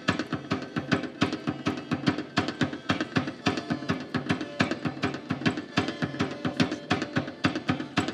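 Live folk-band music with no singing: drums beat a fast, steady rhythm over sustained held notes.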